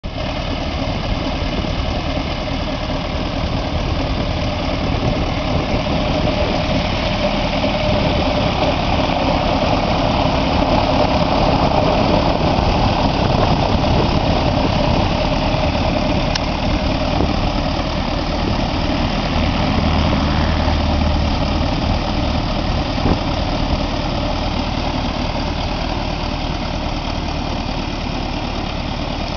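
MWfly B22 light-aircraft engine idling steadily at about 1000 rpm.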